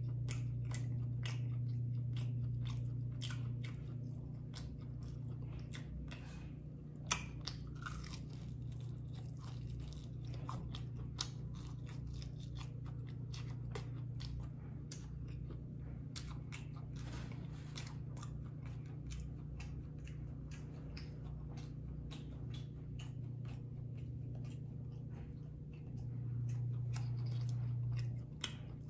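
Close-up chewing and crunching of crispy fried chicken wings, with many sharp crunches and one louder crack about seven seconds in. A low steady hum sits under the first few seconds and again near the end.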